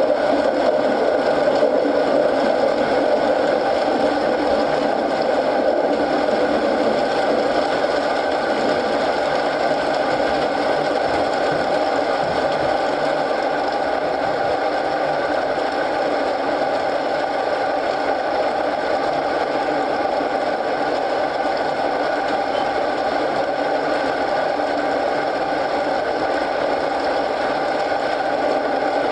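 Steady rain mixed with a fire burning in a fireplace, an even, unbroken wash of noise.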